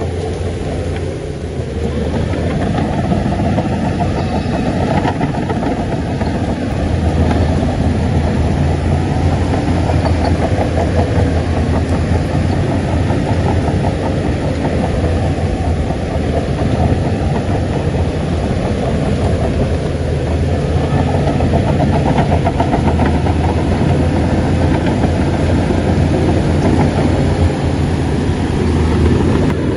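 Shantui crawler bulldozer's diesel engine running steadily under load, a deep, continuous engine hum that grows louder about two seconds in.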